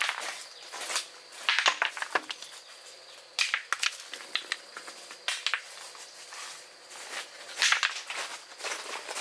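Irregular dry crunching and rustling in short bursts, roughly one every second or two.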